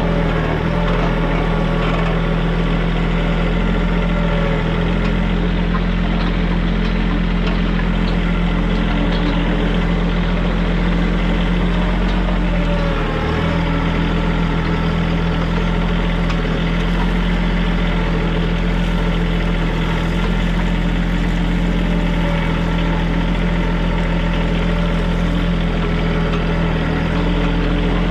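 Diesel engine of a TYM compact tractor running steadily, with a brief dip in engine speed about halfway through.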